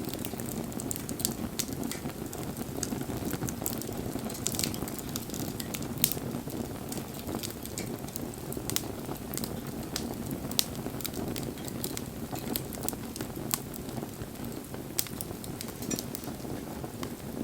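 Campfire burning: a steady low rush of flame with frequent sharp crackles and pops.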